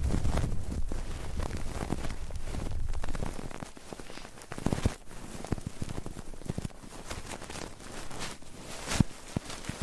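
Close-miked ASMR ear-rubbing and ear-cleaning sounds on the microphone: dense scratching and rubbing broken by many soft clicks, with heavier, deeper rubbing for the first few seconds.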